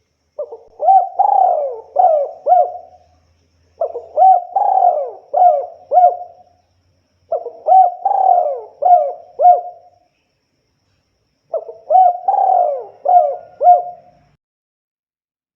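Spotted dove (tekukur) cooing: four repeated phrases, each a run of several rising-and-falling coo notes, with short pauses between them.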